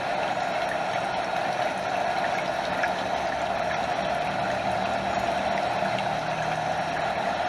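Stream water flowing over a small waterfall, a steady, even rush of water.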